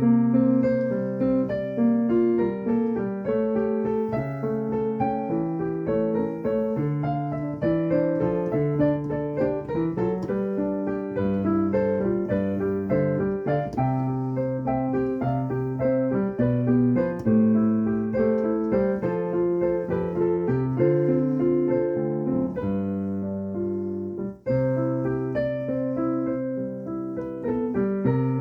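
Solo piano playing an improvised piece, with chords and melody notes overlapping, and a brief break in the playing about three-quarters of the way through.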